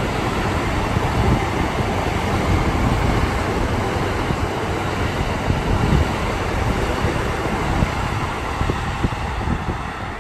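Electric commuter train running past below, a steady rumble of wheels on rails that begins to fade near the end.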